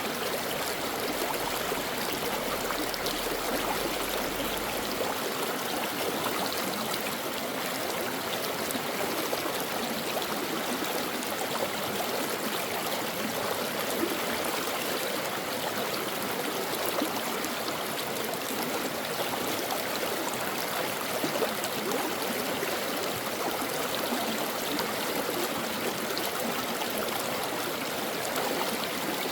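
A brook flowing, a steady rush and babble of water.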